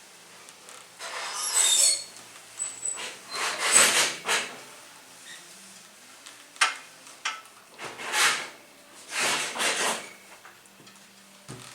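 Clothes iron pressed and slid over fabric on an ironing board: four rubbing strokes of about a second each, with a sharp click near the middle and a low thump near the end.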